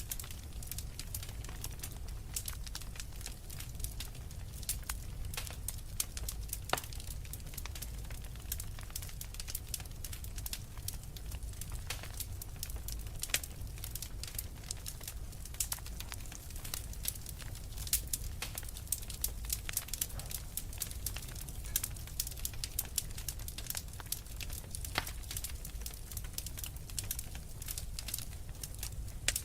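Wood fire burning in a fireplace: a steady low rumble under frequent sharp crackles and pops from the burning logs, a few pops louder than the rest.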